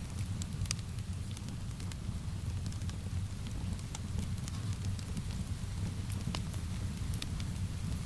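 Wood fire crackling, irregular sharp pops and snaps over a steady low rumble, with rain mixed in.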